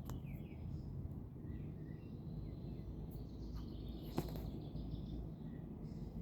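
Scattered short chirps of small birds over a low steady rumble of outdoor noise, with one sharp click about four seconds in.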